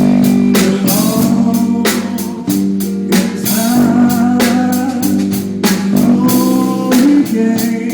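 A band playing blues-style music: a singer over guitar, bass and a steady drum beat.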